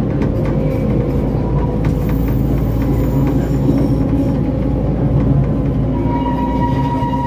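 Narrow-gauge train on 760 mm track running steadily, a continuous rumble of engine and wheels. About six seconds in, a high steady wheel squeal starts as it takes a curve.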